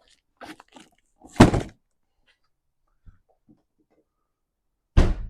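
Handling knocks and thuds: a few light knocks, then a loud thud about a second and a half in, and another loud thud near the end.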